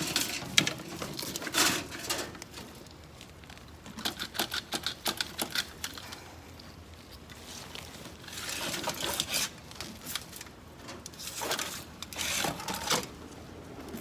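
Hands digging through potting soil in a container to harvest potatoes: irregular rustling and scraping with clusters of quick small clicks, the busiest runs of clicks near the middle and scraping bursts late on.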